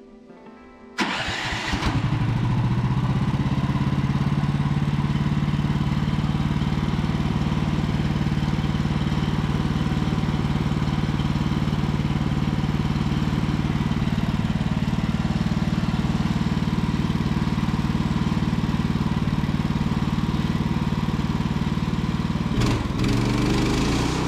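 Portable sawmill's gasoline engine starting about a second in, after running out of fuel mid-cut, then running steadily with a brief dip near the end.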